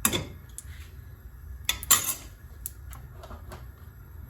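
Metal kitchen utensils and pans clinking and knocking: a handful of sharp clinks, the loudest at the start and about two seconds in, over a steady low hum.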